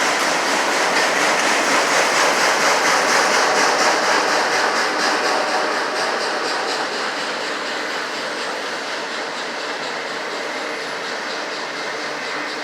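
Norfolk Southern freight train of autorack cars rolling past, with steady wheel and rail noise and the clickety-clack of wheels over rail joints. It eases slightly quieter in the second half.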